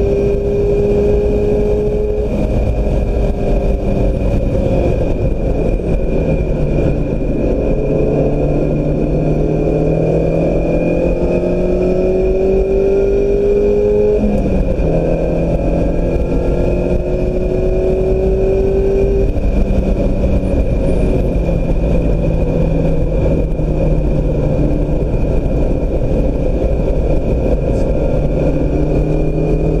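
A 2016 Mazda MX-5 Miata's 2.0-litre four-cylinder engine under hard acceleration on track. It climbs in pitch through the revs, then drops back at each upshift or lift, several times, over heavy wind and road rumble. A steady high whine sits under it throughout.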